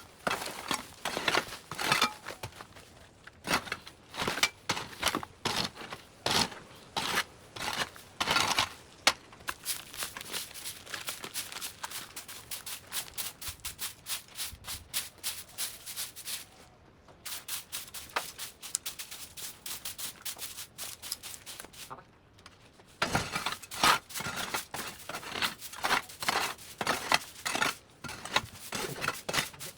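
Overgrown vines and brush being cut and pulled away by hand: a long run of irregular sharp snips, crackles and tearing rustles, with two short lulls, one about two-thirds through and one a little later.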